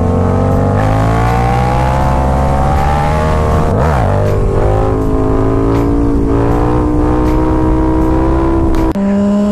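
Sport motorcycle engine pulling under steady throttle, its pitch climbing slowly. A brief crossing sweep in pitch comes about four seconds in, and near the end the sound cuts abruptly to a different, steadier engine tone.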